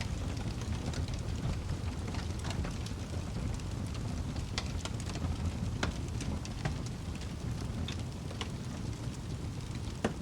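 Wood fire burning in a fireplace: a steady low rumble of flames with irregular sharp crackles and pops from the burning logs, the loudest pop near the end.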